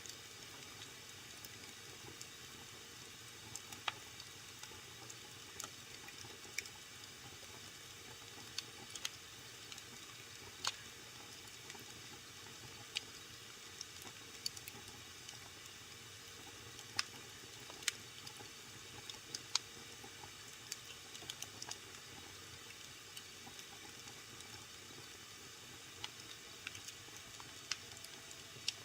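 Wood fire burning in a fireplace: a steady soft hiss with irregular sharp crackles and pops, several in quick succession at times.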